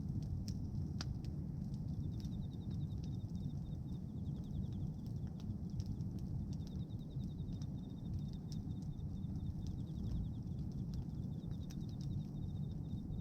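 Bonfire of pruned tree branches burning: a steady low rumble of flames with scattered sharp crackles and pops. A fast, high trill repeats in runs in the background.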